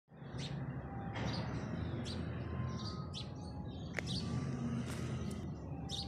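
Small birds chirping in short, repeated calls over steady low background noise, with one sharp click about four seconds in.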